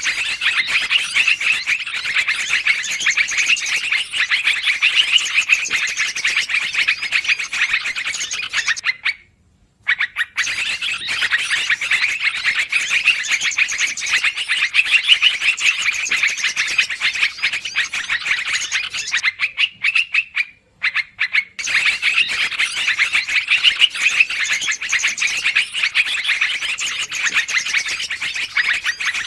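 Lure recording of yellow-vented bulbuls (trucukan) chattering noisily in dense, rapid runs of calls. The chatter breaks off twice, briefly, about nine and twenty-one seconds in, where the recording seems to loop.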